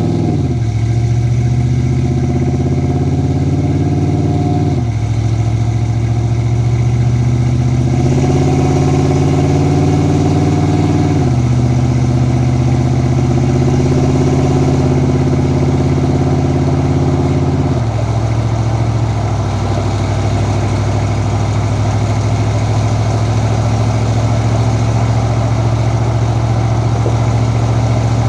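Ford 7.3L Godzilla V8 with a custom exhaust pulling through the gears of a 6R80 automatic: the engine note climbs, then falls sharply at each of three upshifts, about five, eleven and eighteen seconds in. After the last shift it settles into a steady highway cruise.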